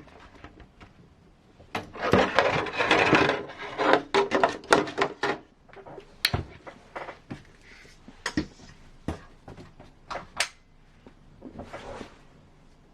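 Hard plastic model parts and small hardware being handled on a workbench: a rustle about two seconds in, a quick run of clicks and knocks, then scattered taps.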